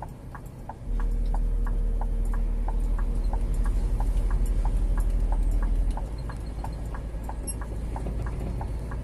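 Turn-signal indicator ticking evenly, about three clicks a second, in the cab of a Scania G410 truck. Under it the truck's diesel engine drones low; the drone grows louder about a second in and eases back about six seconds in.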